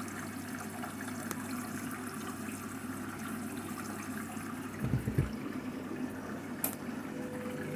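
Candy washing machine filling with water at the start of its Duvet and Quilts cycle: a steady rush of water going in over a low hum. A few low thumps come about five seconds in, and a sharp click near the end.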